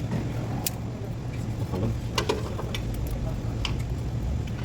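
A steady low mechanical hum with a few short, sharp clicks, four or so scattered through.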